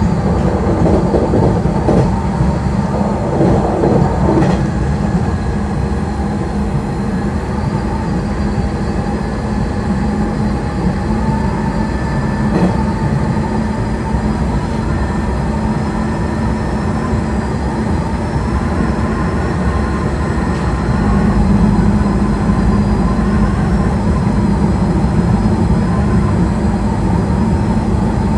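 Nishitetsu electric train running at speed, heard from the driver's cab: a steady rumble of wheels on rail with a faint high whine. There are a few sharp clicks in the first few seconds as it runs over the points.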